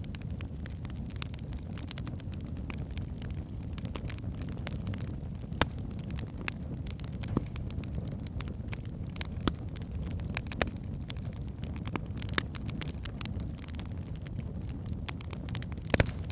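Wood fire burning in a fireplace: a steady low rumble of flames with irregular sharp crackles and pops from the logs, a few louder pops among them.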